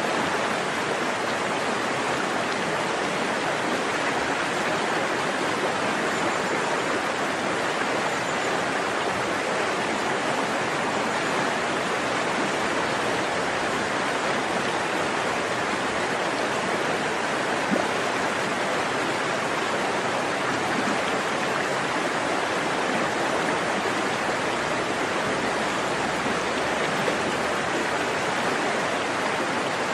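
Stream water flowing steadily over rocks, a continuous rushing babble.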